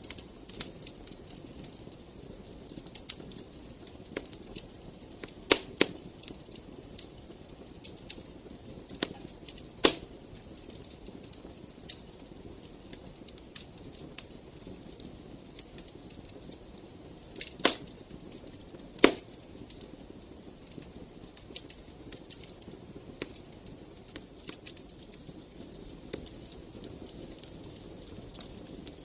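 Wood fire in a fireplace crackling, with irregular small snaps over a low steady rustle and four louder pops.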